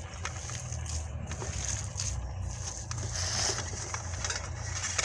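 Minced chicken being kneaded and squeezed by hand with egg and spices, giving soft squishing and rustling sounds. A steady low hum runs underneath.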